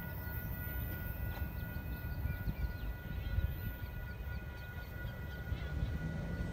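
Amtrak train's low rumble dying away after it has passed, with two faint steady high tones held over it.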